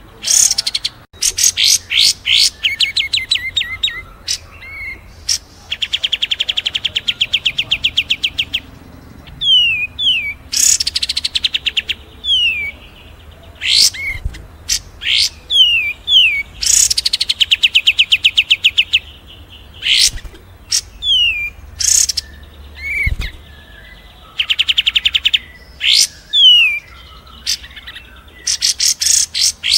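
A mix of several songbirds singing: sharp high chirps, short falling whistled notes repeated in series, and long fast rattling trills lasting two to three seconds.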